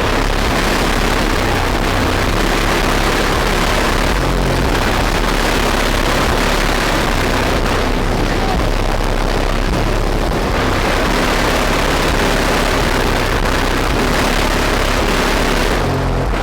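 A car's trunk sound system playing music at extreme volume, its heavy bass overloading the microphone into a steady, distorted wall of sound.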